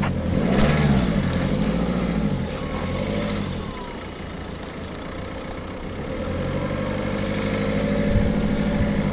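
Ford C-Max car engine running at low revs. Its pitch rises and falls in slow swells for the first few seconds, then holds steady near the end.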